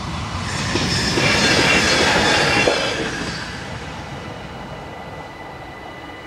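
A GTW-E train passes close by. Its running noise swells to a peak over the first three seconds, with a few sharp wheel clicks on the rails, then fades away. Throughout, the level-crossing bells ring on as a steady high tone.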